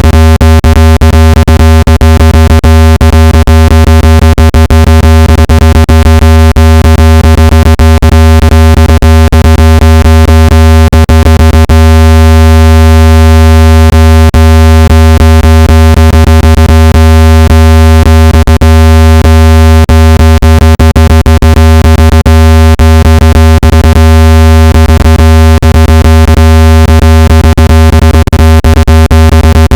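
Loud synthetic speaker-cleaning tone: a steady deep tone with a stack of overtones, broken by frequent irregular clicks. It is played at full volume to make a phone speaker's diaphragm vibrate hard and shake out dust and moisture.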